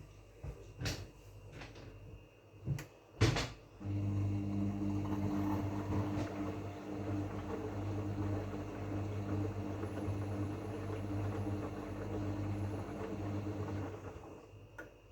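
LERAN WMS 27106 WD2 washing machine: a few clicks and knocks, then a motor hum that starts about four seconds in, runs steadily for about ten seconds with water swishing, and cuts off near the end, followed by a single click.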